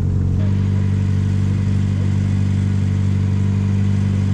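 The 1275cc MG Midget's four-cylinder engine running steadily on the road, with road and wind noise. The engine note changes slightly about half a second in.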